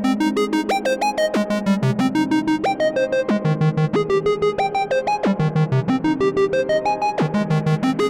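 Moog Grandmother analog synthesizer running its arpeggiator: a fast, even stream of sharply attacked notes stepping up and down in a repeating pattern over a lower held line.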